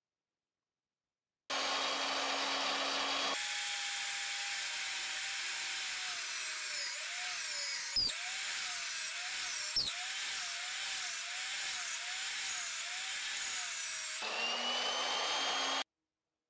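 Bench drill press boring a large hole into wood with a Forstner bit; its whine sags and wavers as the bit is fed into the cut, with two sharp clicks midway. The sound starts after about a second and a half of silence and cuts off near the end.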